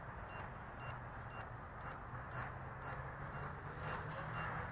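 Toy quadcopter transmitter beeping, short high-pitched beeps about twice a second, the signal that headless mode is on. Under the beeps is the steady hum of the mini quadcopter's motors and propellers.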